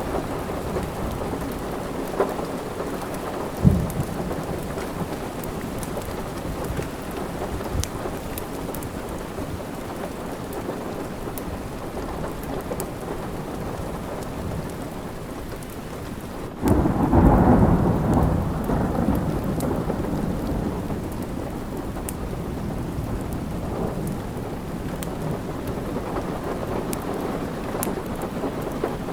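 Steady rain with a wood fire crackling in sharp little pops. A little past halfway a sudden thunderclap breaks in and rumbles off over several seconds.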